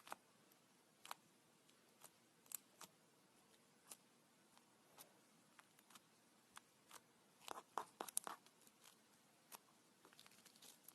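Faint, scattered clicks and small pops of slime being handled, with a denser run of them about seven and a half seconds in and a few quick ticks near the end.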